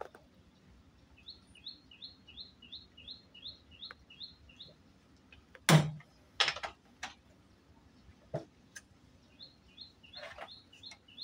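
A bird calling a rapid run of short two-note chirps, about three a second, which stops and starts up again near the end. A few sharp knocks come in the middle, the loudest about six seconds in: plastic bottle-cap checkers pieces knocked onto the wooden board.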